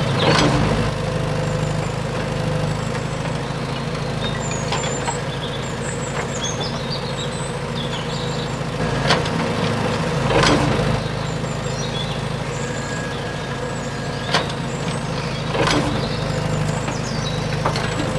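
Steady low drone of the small motor-driven mini JCB at work loading soil, with a sharp knock or clatter about half a dozen times.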